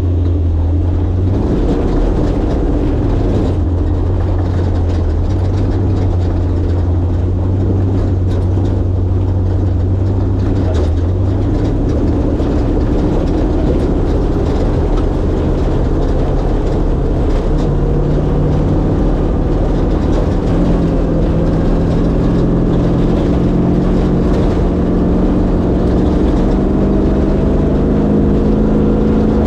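1967 Ford Bronco's 363 stroker V8 running steadily under way. Its low drone drops away about eleven seconds in, and over the second half the engine note climbs in pitch step by step.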